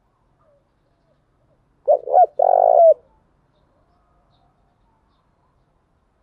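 Spotted dove cooing: one phrase of two short coos and a longer coo that drops in pitch at its end, about two seconds in.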